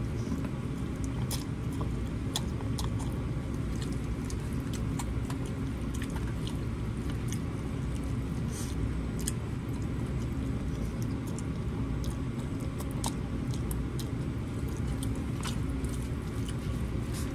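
A person chewing a mouthful of pasta close to the microphone, with scattered short clicks of a fork in the bowl. A steady low background rumble runs underneath.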